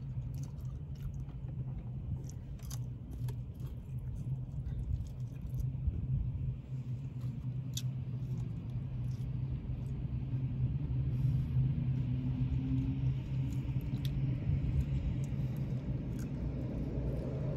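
Quiet chewing, with scattered soft mouth clicks and food-handling ticks, over a steady low rumbling hum.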